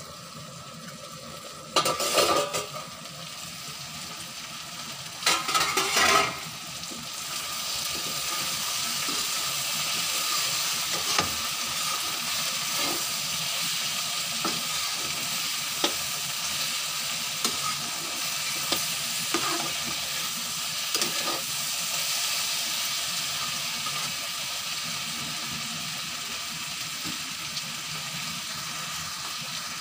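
Chopped okra frying in mustard oil in a metal kadhai: two loud metal clatters in the first six seconds, then a steady sizzle with a metal spatula scraping and tapping the pan as the okra is stirred.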